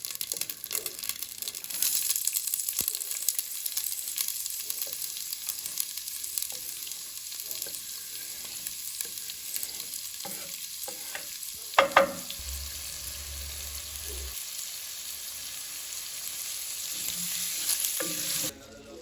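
Food frying in a pan, a steady crackling sizzle with one sharp clack of a utensil against the pan about twelve seconds in. The sizzle cuts off suddenly just before the end.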